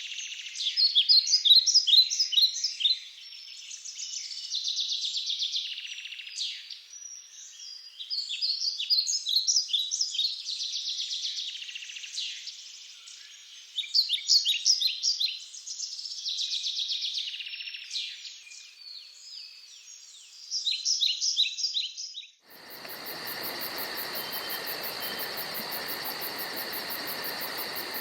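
Amazon rainforest wildlife calling: repeated rounds of high, buzzy trills alternating with quick runs of chirping notes. About twenty seconds in it changes suddenly to a steady insect chorus with a fast, high pulsing.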